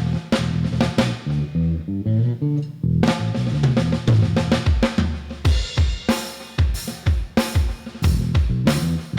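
Band playing an instrumental passage of a Khmer pop song: a drum kit with kick and snare hits over a stepping bass line. The drums grow heavier and more regular about halfway through.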